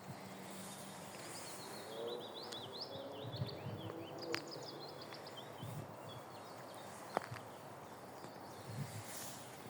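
Songbirds singing in a forest, rapid chirping phrases through the first half and again near the end, over a steady background of outdoor noise. A few soft footfalls and two sharp clicks, the second about seven seconds in, come through as well.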